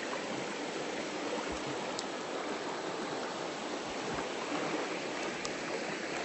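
Shallow river flowing, a steady rush of running water, with a couple of faint clicks.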